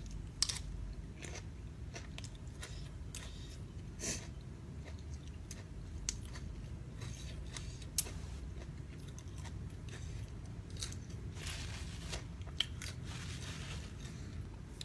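A person chewing and biting fresh shrimp close to the microphone, with scattered short crunches and clicks over a steady low hum.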